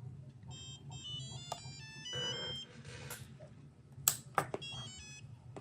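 Electronic beep tunes, runs of short tones stepping quickly up and down, as the RC sound board and its radio gear power up. Two sharp clicks come about four seconds in, over a steady low hum.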